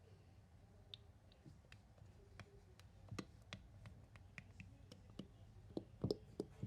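Shaving-cream marshmallow slime being worked by hand, giving faint, irregular small clicks and pops that come thicker and louder near the end.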